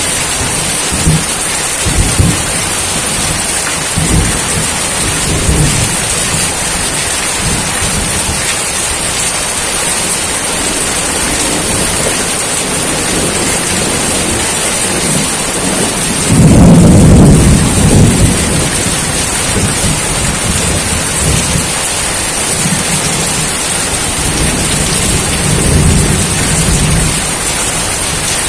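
Steady heavy rain hissing, with low rumbles of thunder; a louder roll of thunder swells and fades a little past halfway through, and a softer rumble comes near the end.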